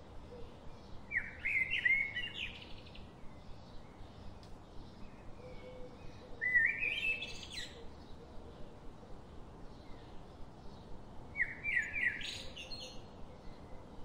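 Birds chirping in three short bouts, each a quick run of rising notes, with a faint regular ticking underneath.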